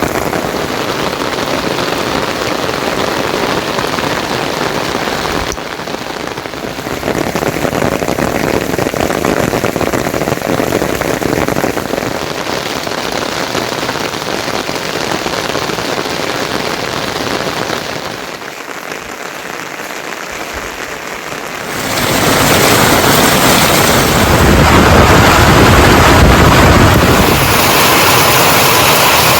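Steady rain falling, with a brief drop about six seconds in, a quieter spell around two-thirds of the way through, and then a louder, fuller stretch of rain.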